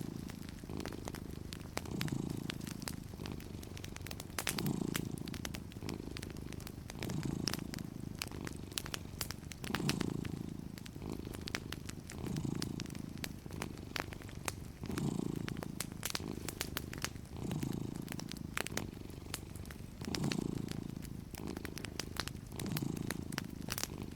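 Cat purring steadily, swelling and easing in a slow rhythm about every two and a half seconds with its breathing, over the scattered crackles and pops of a fireplace.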